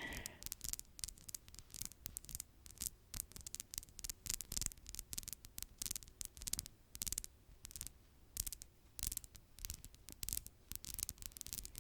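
Freshly done fingernails tapping and clicking in an irregular run of sharp clicks, several a second.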